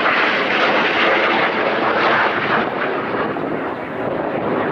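Freight train passing close by: a loud, steady rushing and rumbling of wheels on rails that eases off slightly toward the end.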